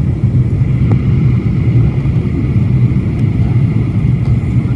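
Steady low rumble of engine and airflow noise inside a Boeing 737's passenger cabin during descent.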